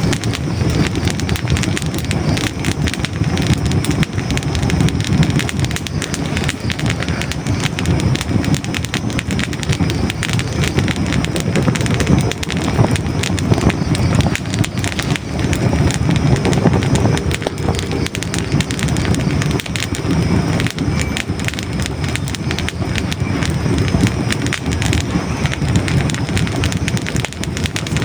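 Hardwood logs burning in a fireplace, crackling constantly with many small pops over a steady low rumble of the flames.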